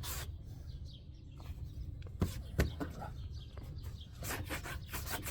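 Crows cawing in the background while a cloth rubs and wipes along a car's quarter-window trim, with two sharp clicks about two seconds in.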